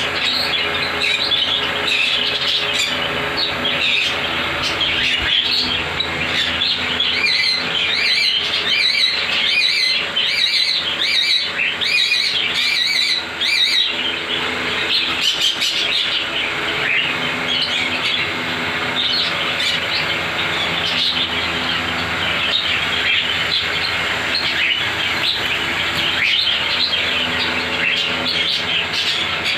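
A room of caged pet parrots (budgies, cockatiels, ringnecks and sun conures) chirping and chattering all at once in a dense, continuous din.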